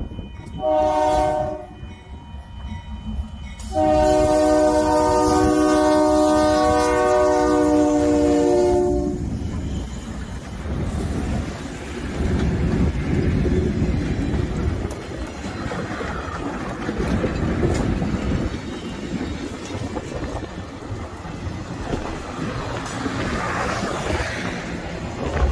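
A locomotive air horn sounds a short chord, then a long one lasting about five seconds. The train then rolls past at close range, its wheels rumbling and clattering over the rails as the cars go by.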